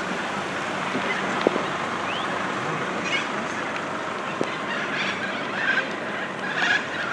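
Steady hiss of rain falling on a wet street, with a sharp click about one and a half seconds in and a few faint short calls over it.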